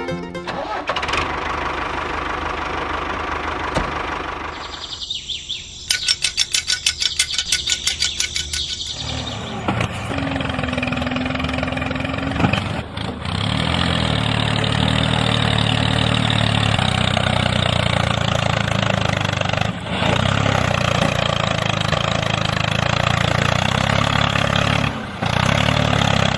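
Engine cranking with a fast rhythmic chugging, then catching about ten seconds in and running steadily.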